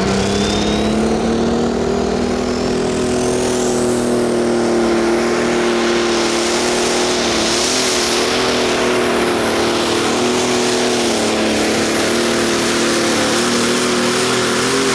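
Pulling truck's engine held at full throttle under load on a pull. Its pitch rises a little at the start, then stays steady with small dips throughout.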